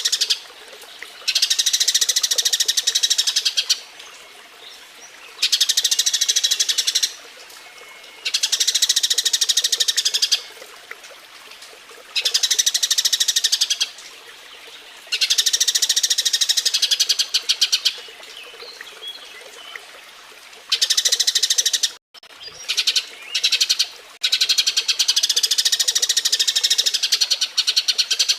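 Eurasian tree sparrows (burung gereja) chattering in their breeding-season courtship call: repeated bouts of rapid, high chirps, each lasting a second or two, with short pauses between. There is a brief break in the sound a little past the two-thirds mark.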